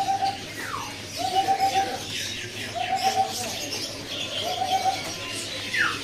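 Caged birds calling. One bird repeats a steady, even-pitched note four times, each under a second long and about a second and a half apart. Two short falling whistles and faint high chirps come from other birds.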